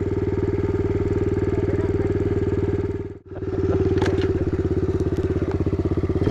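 Pit bike's small single-cylinder four-stroke engine (Kawasaki KLX110) idling steadily, with a brief dropout about three seconds in.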